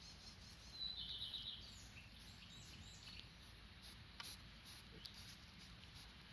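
Faint birdsong: a short high trill about a second in, followed by scattered chirps, over a steady low background rumble.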